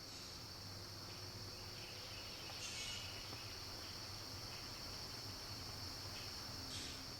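Insects singing in the swamp: a steady, unbroken high-pitched trill, with two brief louder noisy bursts, one about three seconds in and one near the end.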